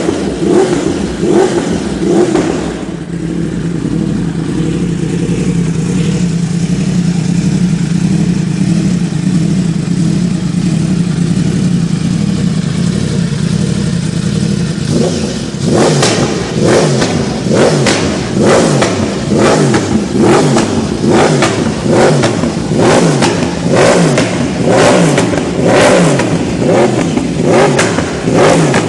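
2015 Yamaha R1's crossplane inline-four through an Akrapovic exhaust: it blips a few times, settles into a steady idle, then from about halfway is revved in short, quick throttle blips about once a second.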